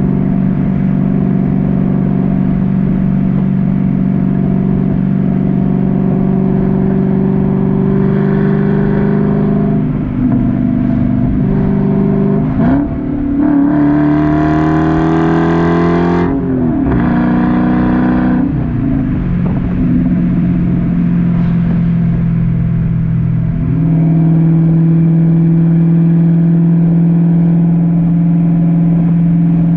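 Dodge Challenger SRT-8's 6.1-litre Hemi V8 exhaust running at a steady drone, then accelerating about halfway through, its pitch climbing before dropping sharply at a gear change, and settling back to a steady cruise drone that grows a little louder near the end.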